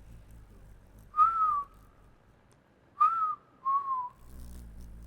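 A person whistling three short single notes: two at the same pitch a couple of seconds apart, then a slightly lower, falling note just after the second.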